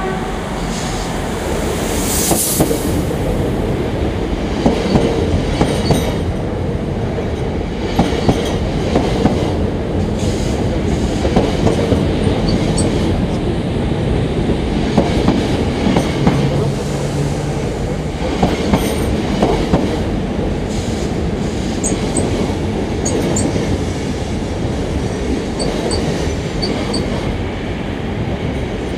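An AM 08 Desiro electric multiple unit (Siemens Desiro ML) running past close by with a steady rumble and wheel clatter over the rail joints. Brief high wheel squeals come in now and then in the second half.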